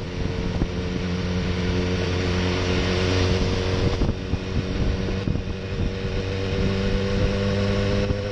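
2016 BMW S1000R's inline-four engine running at steady low revs while the bike cruises slowly, with wind and road noise rushing over the microphone.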